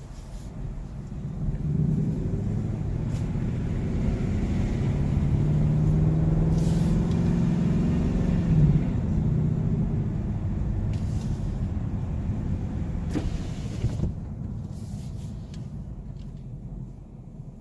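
A 2018 Mustang GT's 5.0 V8 pulling on the road with the windows down, mixed with road and wind noise. The engine note climbs over the first several seconds, then eases off and fades toward the end.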